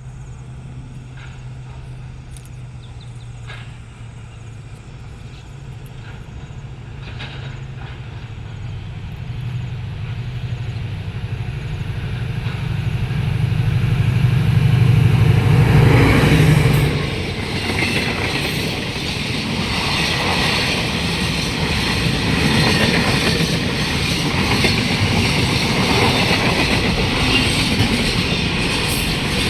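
Diesel locomotive of a freight train approaching. Its low engine drone grows louder until about halfway through, when it passes. Then the steady rumble and clatter of freight wagons rolling by.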